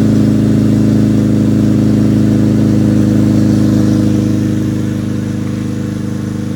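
Exhaust note of a 2002 Acura RSX Type S's 2.0-litre K20 four-cylinder through a DC Race header and Invidia Q300 exhaust, idling steadily after a cold start. It gets a little quieter about two thirds of the way through.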